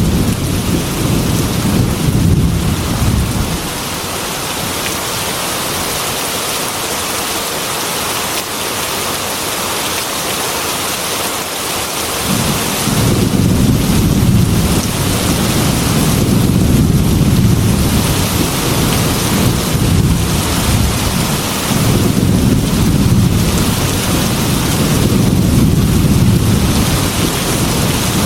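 Heavy rain pattering steadily on a glass window, with deep rolling thunder. The thunder fades out about three seconds in and comes back suddenly about twelve seconds in, rumbling on under the rain.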